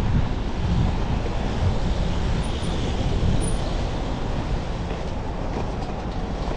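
Steady wind rumble and road noise from riding a bicycle, a continuous low rush with no distinct events.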